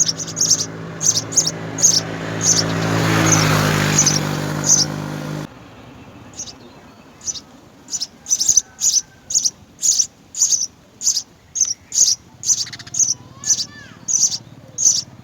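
House sparrows chirping, short sharp chirps repeated about twice a second. For the first five seconds a steady low hum with a swelling rush runs under them and cuts off abruptly.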